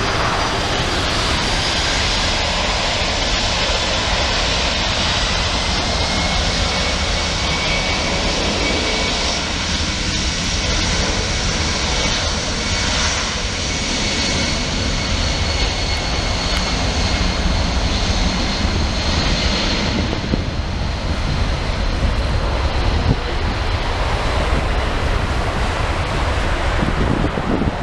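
Wide-body jet airliner passing close by, a loud steady jet roar with a high engine whine that drops slightly in pitch, then eases off in the last several seconds.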